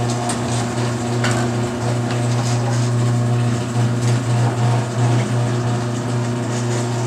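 Electric garage door opener motor running steadily as it drives the door along its track, a constant low hum. No squeak or creak is heard from the door hinges, which have just been lubricated with Royal Purple MaxFilm.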